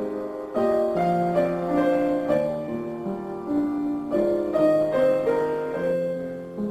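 Background piano music: a gentle tune of held notes that change about every half second.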